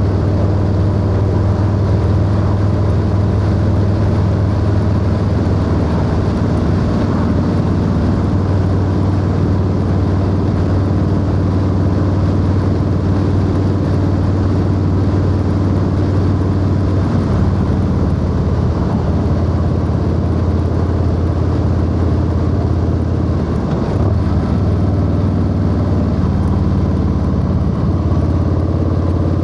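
Harley-Davidson Low Rider S's Milwaukee-Eight 114 V-twin running steadily under way, with wind noise over it. The engine note shifts around 17 seconds in and again about 24 seconds in.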